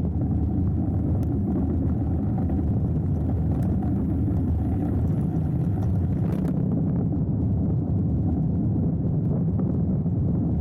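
Hardtail mountain bike riding down a dirt trail: a steady low rumble of tyres and wind, with a few sharp clicks of the bike rattling.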